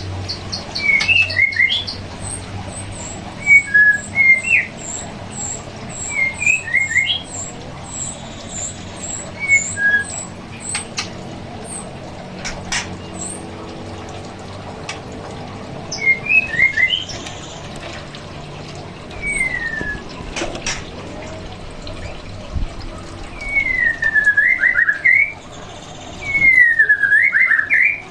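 White-rumped shama calling: short chirped phrases repeated every few seconds, with a fast run of high thin ticks in the first part. Near the end come loud sweeping whistles that fall and rise.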